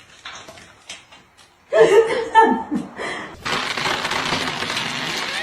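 A person laughs for about a second, then a loud, steady hiss-like noise starts suddenly about three and a half seconds in and carries on.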